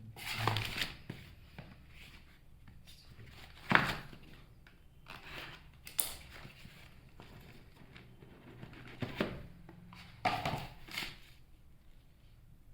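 Phone box and packaging being handled: scattered crinkling and rustling with a few sharp knocks, the loudest about four seconds in.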